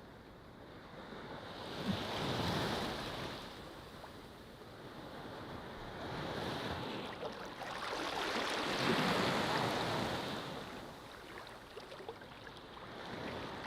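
Ocean waves breaking and washing up a beach in surges, one about two seconds in and a longer, louder one in the middle, with quieter swash between.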